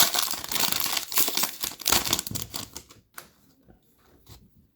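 Foil trading-card pack wrapper crinkling and rustling as it is handled and torn, with rapid clicky card handling, dying down to a few faint clicks after about three seconds.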